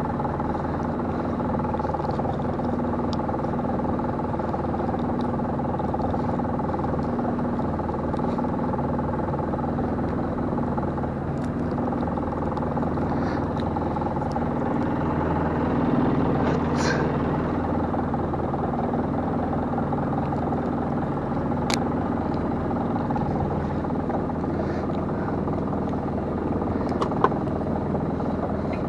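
Small fishing boat's engine running steadily, with a few short clicks and knocks from deck gear.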